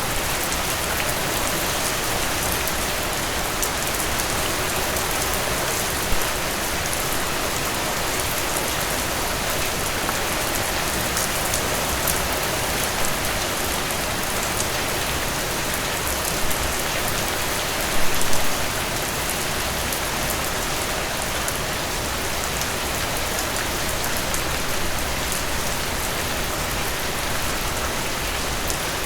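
Heavy rain falling steadily, a dense hiss with individual drops pattering on a surface, and a few brief louder splashes about 6, 16 and 18 seconds in.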